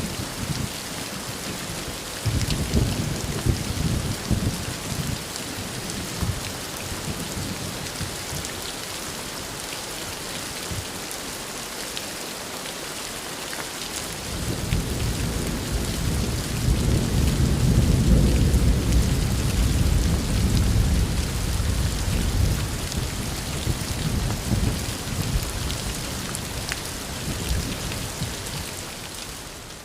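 Heavy rain falling steadily, with rolling thunder: a shorter rumble early on and a long, louder roll about halfway through that slowly dies away. The whole recording fades out near the end.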